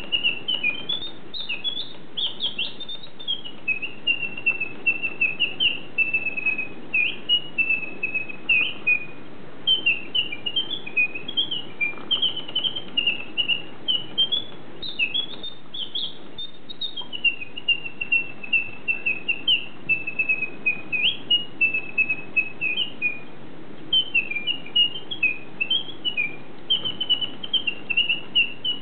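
A bird singing a long, almost unbroken stream of quick high chirps and twittering notes, with only brief pauses, over a steady faint background hiss.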